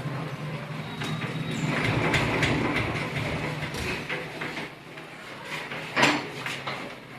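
Royal Enfield Bullet 350's single-cylinder engine idling, revved up about two seconds in and easing back down. A single sharp knock about six seconds in is the loudest sound.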